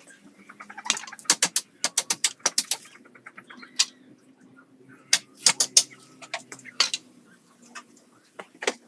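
Irregular sharp taps and knocks, some coming in quick runs, over a faint low hum.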